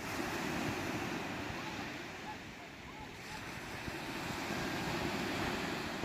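Sea waves breaking and washing up the shore, two surges with a lull between them.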